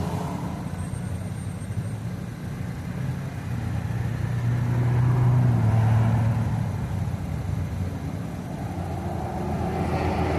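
Small mini bike engine running as it is ridden, its low drone swelling under throttle about halfway through, easing off, then building again near the end.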